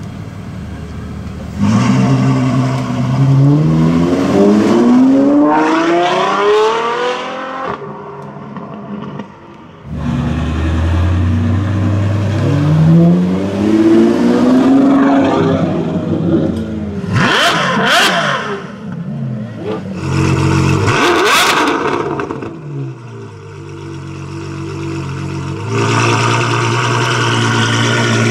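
Ferrari F12 Berlinetta's V12 engine accelerating twice, its pitch climbing in steps and then falling away. A few sharp cracks come about two-thirds of the way through, and the engine runs steadily again near the end.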